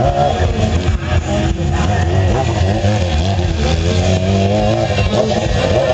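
Motorcycle engines running and revving in a crowd, a steady loud rumble.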